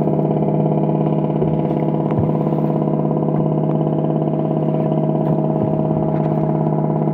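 Speed boat engine running steadily at an even, unchanging pitch.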